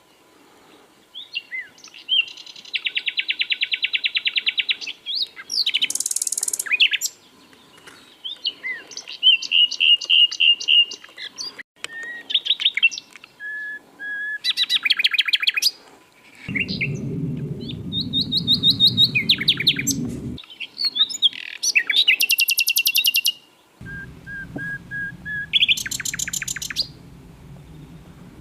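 Common nightingale singing a string of varied phrases: rapid trills and rattling runs of notes, with soft whistled notes repeated on one pitch. A low hum sounds twice behind the song, each time for a few seconds.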